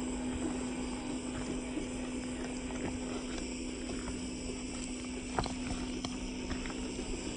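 Radio-controlled off-road car running on a rock track: a steady hum, with a few sharp knocks of tyres or chassis on stone.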